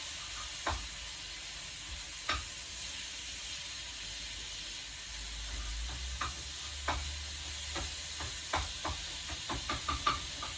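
Fish sizzling in a frying pan in a reducing sauce, a steady hiss, with a utensil clicking against the pan now and then, more often near the end as it is stirred.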